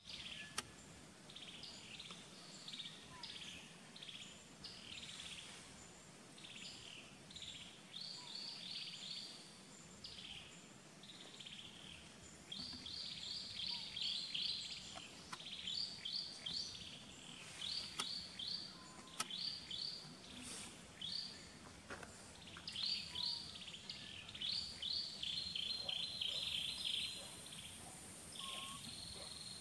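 Birds in the trees calling in quick repeated series of short high chirps, growing busier about halfway through, with a steady high buzz coming in near the end.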